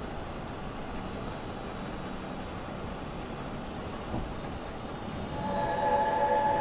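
Steady road and tyre noise inside the cabin of a 2023 Toyota Highlander Hybrid while driving. About five seconds in, a louder steady chord of several tones starts and holds.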